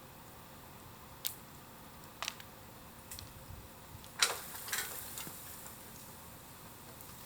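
Bamboo bonfire crackling: a few scattered sharp pops and cracks, with the loudest cluster about four seconds in.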